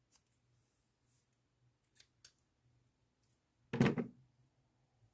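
A few light clicks and taps of small tools and model parts handled on a workbench, then one louder knock about four seconds in, like something set down on the bench.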